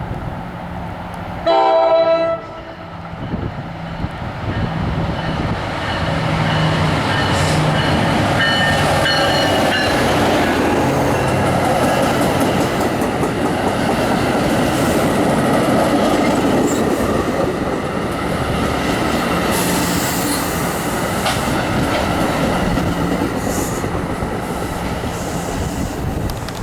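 A train's horn gives one short, loud blast about two seconds in, and fainter horn notes follow a few seconds later. The train then passes close by with a loud, steady rumble of engine and wheels on the rails.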